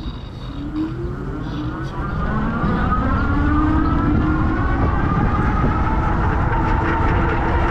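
Electric hub motor whining as it speeds up, its pitch rising for the first few seconds and then holding steady, over low wind and road rumble.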